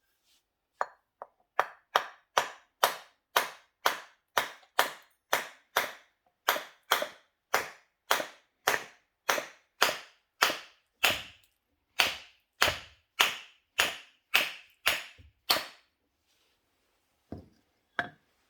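A hammer striking metal in steady, hard blows, about two to three a second, each with a short ring; the blows stop about three seconds before the end, and two more follow near the end.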